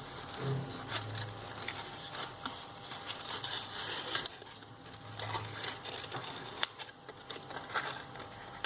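Card stock paper being handled: irregular rustling and crinkling with light clicks and taps.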